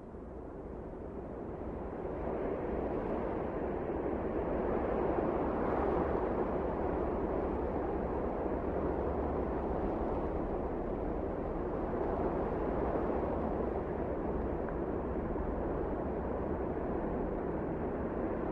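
Wind blowing steadily, a low rushing that swells over the first few seconds and then holds even.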